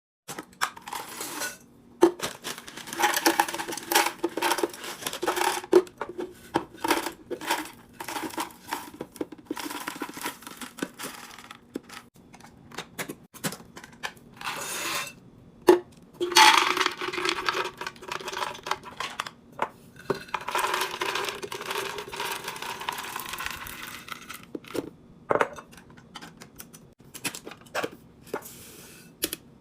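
Groceries being unpacked and put away: plastic packaging crinkling and tearing, with repeated clinks and knocks of containers and items being set down.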